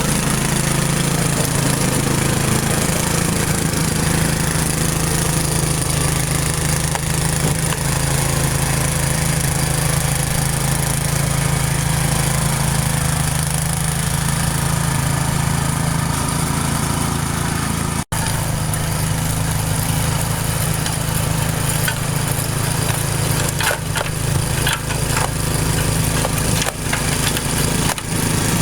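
Gas-powered Craftsman leaf blower running steadily at a constant speed. It drops out for an instant about two-thirds of the way through.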